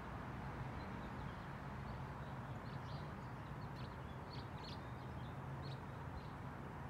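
Wild birds chirping: a scatter of short, high chirps in the middle of the stretch, over a steady low hum and outdoor background noise.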